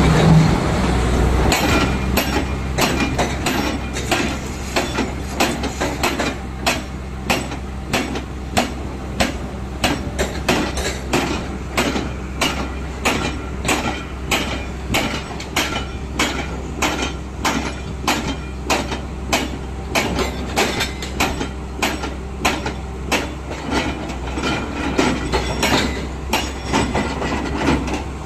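LiuGong 965E crawler excavator running, its diesel engine a steady low drone under an even metallic clanking about two to three times a second, typical of steel tracks rolling as the machine travels.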